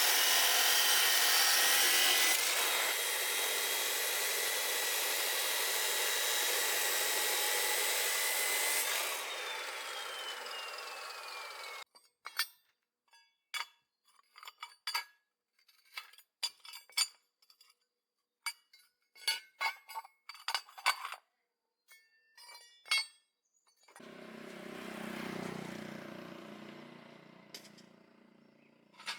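Electric power tool running loud and steady while cutting, then switched off and spinning down with a falling whine. Scattered light clinks and knocks follow, then a brief swell of rushing noise and one last clink near the end.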